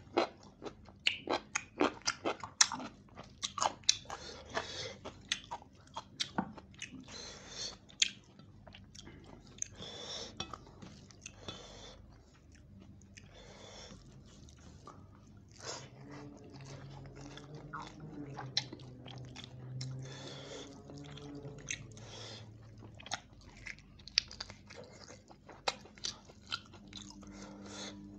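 Close-up chewing and lip-smacking of a man eating chicken roast and rice with his hand: many sharp wet mouth clicks, thickest in the first half, with a low hum through the middle.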